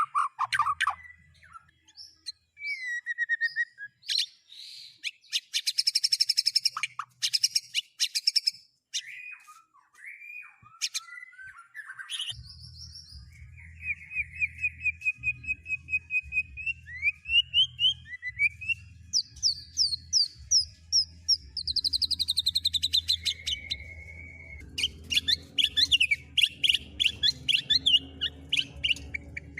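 Songbirds singing: a string of varied high chirps, whistles, sliding notes and fast trills with short gaps between phrases. A steady low hum joins about twelve seconds in and runs under the song.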